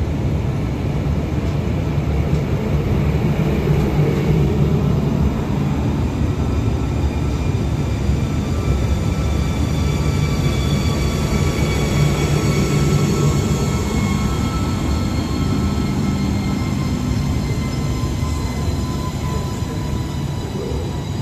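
V set double-decker electric intercity train departing and gathering speed as its carriages pass close by: a steady low rumble of wheels on rails with a whine of several tones from the traction gear running over it.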